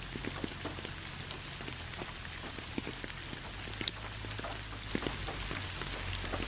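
Steady rain falling: an even hiss with many separate drops striking at irregular moments.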